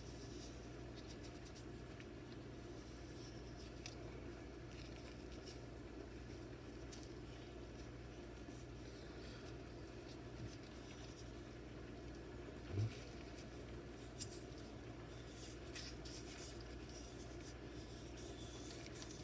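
Fine 2000-grit sandpaper wrapped around an X-Acto knife handle, scratching faintly as it is twisted through the thumb hole of a rusty knife blade to sand out rust and burrs. A low steady hum runs underneath, with a single dull knock about thirteen seconds in.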